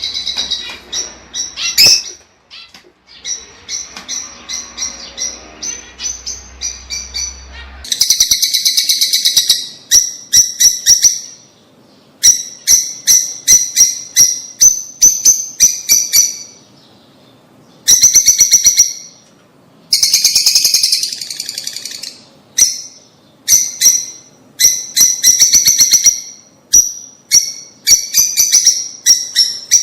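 Lovebirds chirping: rapid runs of sharp, high-pitched chirps in bursts separated by short pauses, growing louder and busier about eight seconds in.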